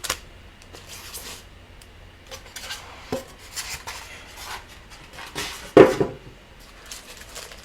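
Handling noise from unpacking: scattered small knocks and clatters of hard parts being picked up and set down, with rubbing and rustling of packaging, and one louder knock a little before six seconds in.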